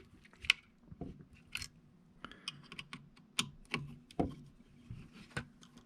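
Irregular light clicks and small knocks of a precision screwdriver working screws into a drone gimbal's plastic housing and being handled on the bench, under a faint steady low hum.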